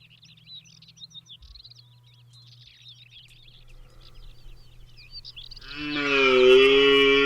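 Faint small-bird chirping, then about six seconds in a red deer stag bellows loudly: one long, even-pitched rutting roar that males use to intimidate rivals and attract hinds.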